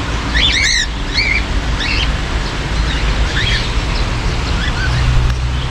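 Small birds chirping, many short quick calls scattered throughout, over a steady low background noise.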